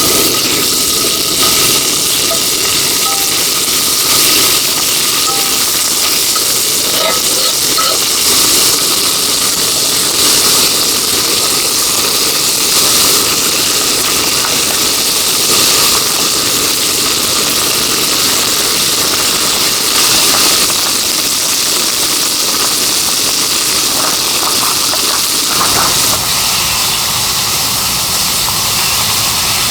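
Heavy rain pouring steadily, a dense hiss that swells a little every couple of seconds.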